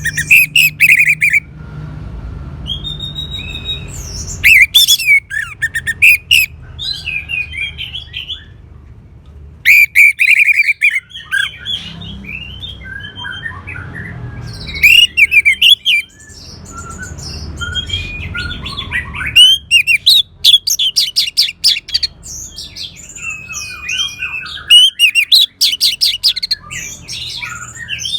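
Orange-headed thrush song: repeated bursts of rapid, varied, high-pitched phrases with fast trills and glides, broken by short pauses, over a low rumble.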